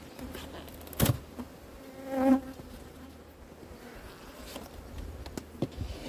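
Honeybees buzzing around an open hive, with one bee flying close past the microphone about two seconds in, a loud swelling buzz. A sharp knock about a second in and a few light clicks near the end.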